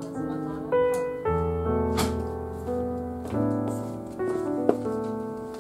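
Background piano music, a melody of separate sustained notes. A sharp click sounds about two seconds in, and another, louder one near the end.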